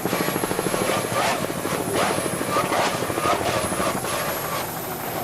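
Loud, steady motor noise with a fast, even pulsing beat, overlaid by short, irregular hissing splashes.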